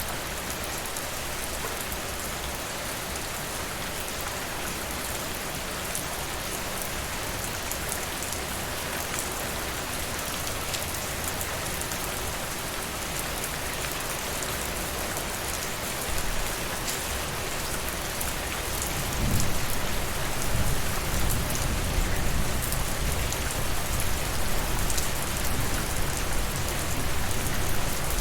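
Steady rain falling. About two-thirds of the way through, a low rumble comes up under the rain and stays to the end.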